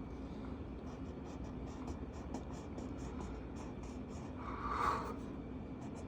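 Rapid strokes of a colouring pencil or crayon on paper, about five short scratchy strokes a second, as a page is coloured in. One brief, louder sound comes about five seconds in.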